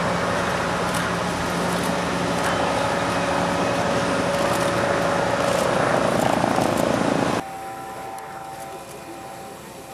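Tugboat engine running with a steady hum and rumble, which cuts off suddenly about seven seconds in, leaving quieter ambience with a faint steady tone.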